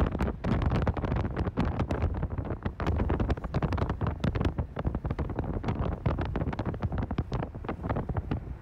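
Wind buffeting the microphone: a low rumble with rapid, irregular gusts throughout.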